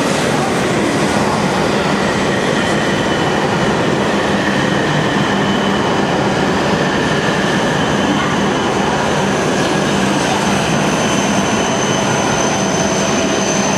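Hokuriku Shinkansen train moving along the platform: a loud, steady running noise with several thin whining tones from the motors, the highest tone growing stronger near the end.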